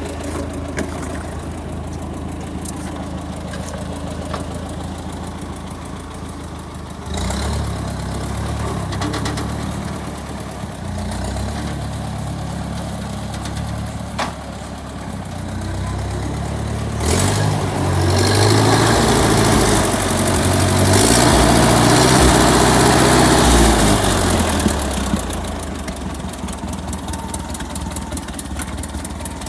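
Early Ford 4000 tractor engine running: it idles, picks up speed in steps, runs loudest and fastest for several seconds past the middle, then drops back toward idle near the end.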